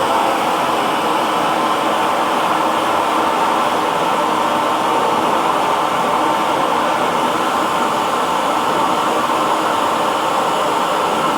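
Hair dryer running, a steady blowing whoosh with a faint motor hum.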